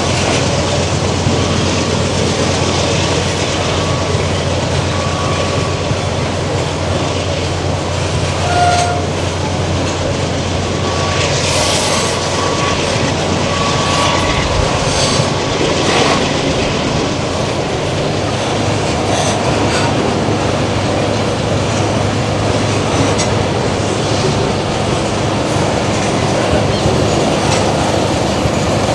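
Freight train of boxcars rolling past, wheels clacking over the rail joints, under a steady low drone. There are a few brief wheel squeals.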